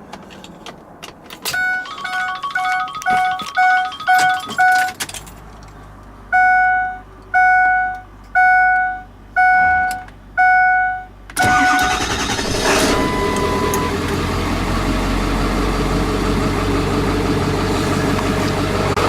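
Ford dashboard warning chimes ding, first quickly and then five slower times, with the key on. Then the 7.3 Power Stroke V8 turbo-diesel in a Ford Excursion cranks briefly, catches and settles into a steady idle. It starts with its new injection pressure regulator (IPR) valve, which cures the no-start.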